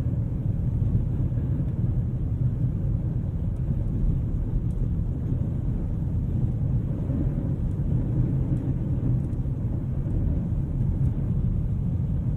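Steady low rumble inside an E46 BMW M3's cabin while driving on a snowy road: engine and tyre noise at a constant pace.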